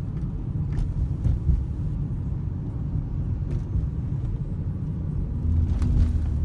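2013 Ford Edge's engine and exhaust heard from inside the cabin under way: a steady low rumble mixed with road noise, with a low, even drone setting in about five and a half seconds in.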